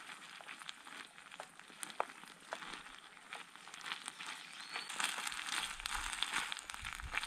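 Noodles sizzling and crackling in oil in a small nonstick camping frying pan as they are stir-fried with a wooden spoon. The crackle grows thicker and louder about five seconds in.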